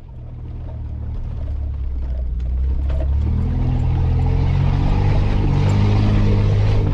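Off-road 4x4's engine heard from inside the cabin, running at low revs, then revving higher and louder about three seconds in.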